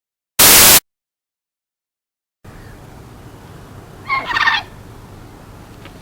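A half-second burst of loud hiss, then a pause. A bird recording then starts over a faint, steady outdoor background, with one rapid, rattling call that drops in pitch about two-thirds of the way through.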